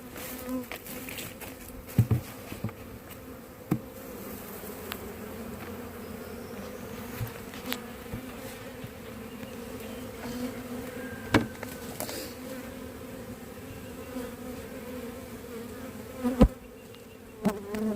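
A honeybee swarm buzzing in a steady drone. Several sharp knocks break in over it, the loudest near the end.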